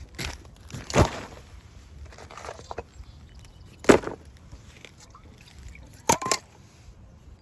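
A few sharp, irregularly spaced knocks and cracks: one about a second in, a louder one near four seconds, and a quick pair at about six seconds, over a faint rustling background.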